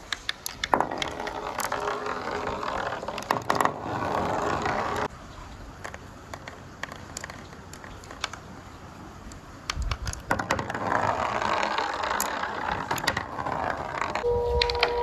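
Marbles rolling along a marble-run track, a steady rolling rumble with many sharp clicks as they knock against the track pieces. The rolling comes in two stretches, one starting about a second in and one about ten seconds in, with quieter clicking between them.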